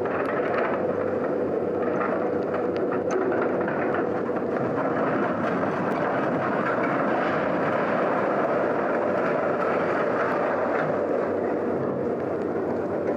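A heavy machine's engine running steadily, with a faint held tone and a few light clicks.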